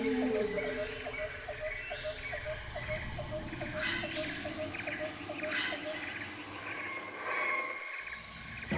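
Tropical forest ambience: a regular pulsed call, insect or frog, repeating about three times a second and stopping a little after halfway, with scattered bird chirps and a short whistle over a steady insect hiss.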